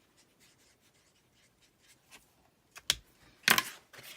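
Handling of a thin plastic stencil transfer sheet and its backing paper: faint rubbing, then a sharp crinkle a little before three seconds and a short, louder rustle of the sheet about half a second later.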